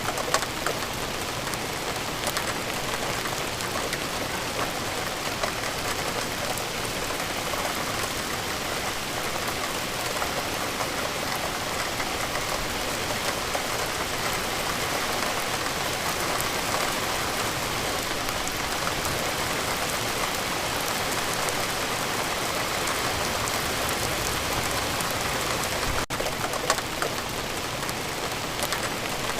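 Steady rain falling, an even hiss sprinkled with the taps of single drops, with a momentary break about 26 seconds in.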